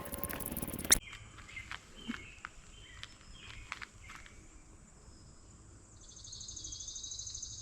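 Rustling, crackling noise for about the first second, which cuts off abruptly. Then come scattered short high chirps and, near the end, a rapid high-pitched trill lasting about a second and a half, from small wild animal calls.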